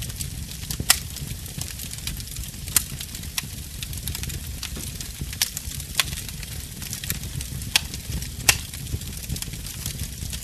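Wood fire crackling in a fireplace: a steady low rumble of flames with frequent sharp pops and snaps, a few louder ones standing out.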